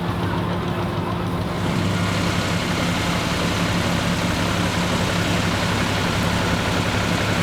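Deutz F3L514 three-cylinder air-cooled diesel tractor engine running steadily, driving a Claas Super pull-type combine. About two seconds in, a louder machinery hiss joins the engine note and carries on.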